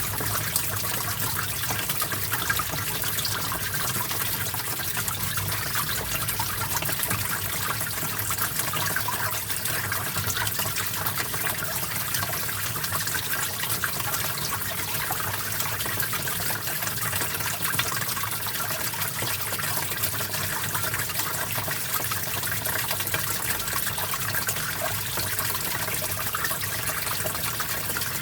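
Small stream of water flowing and trickling steadily, a constant splashing babble.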